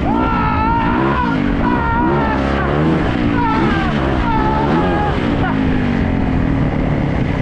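Yamaha YZ450 dirt bike's single-cylinder four-stroke engine under way, its pitch rising and falling over and over as the throttle is opened and closed.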